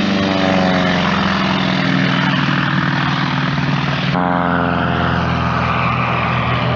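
North American T-28 Trojan's radial engine and propeller running steadily as the plane flies by, with an abrupt change in tone about four seconds in.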